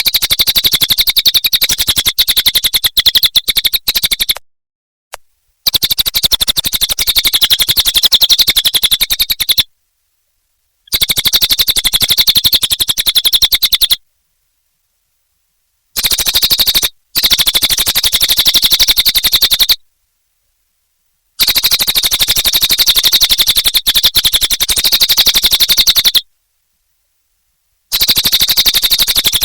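Cililin bird singing in a fast, rapid-fire chattering song concentrated in a high band. It comes in phrases of a few seconds each, separated by short silent pauses, about seven phrases in all.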